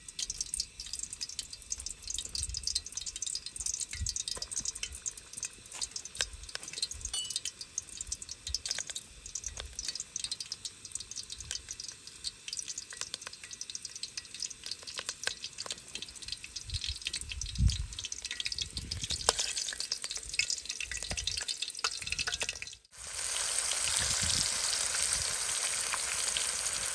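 Onion pieces crackling and popping in hot oil in a black pot. About 23 seconds in it changes to a louder, steady sizzle as pieces of fish cook in the pot.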